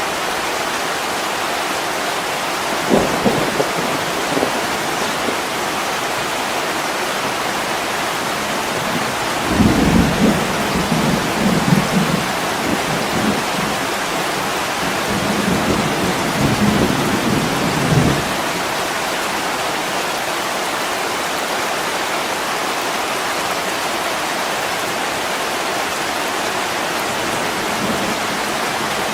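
Steady heavy rain with thunder rumbling: a short rumble about three seconds in, then a longer rolling one from about ten seconds to eighteen seconds, under an even rush of rain.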